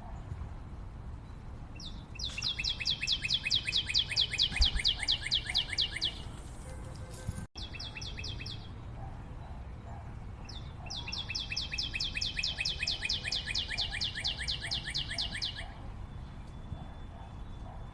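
A forest bird calling in fast, high trills of evenly repeated notes, about eight a second. There are two long trills of about four seconds each, with a short burst between them, over fainter background calling.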